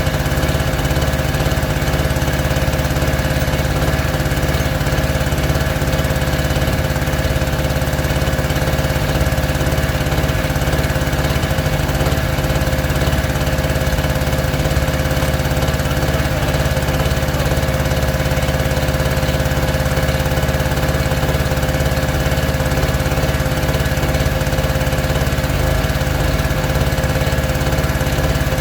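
A small combustion engine running steadily at an even speed, with a deep low drone and no change in pitch or level.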